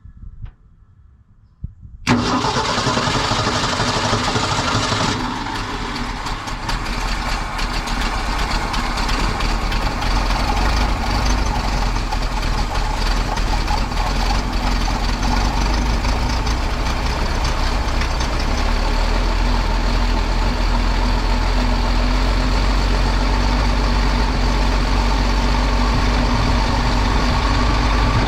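Dump truck's gasoline engine, just fitted with a new carburetor, starting about two seconds in. It runs fast and loud for a few seconds, then settles into a steady idle.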